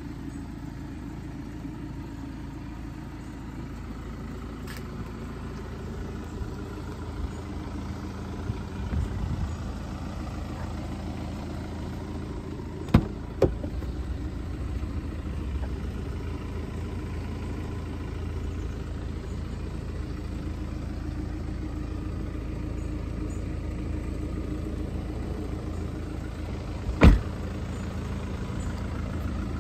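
2012 BMW 520d's four-cylinder turbodiesel idling steadily, with two sharp knocks about halfway through and a louder one near the end.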